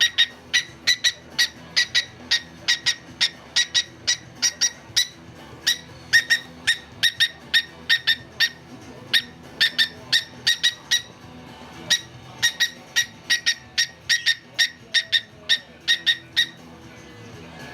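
Cockatiel making a rapid, rhythmic run of short, sharp clicking sounds, about three a second, pausing briefly past the middle and stopping near the end, over faint background music.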